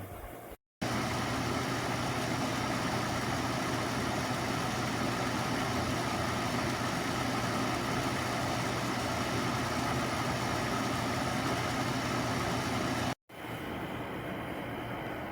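SereneLife portable air conditioner running: a steady fan rush over a constant low compressor hum. It cuts in abruptly just under a second in and cuts off abruptly near the end, leaving a quieter steady hum.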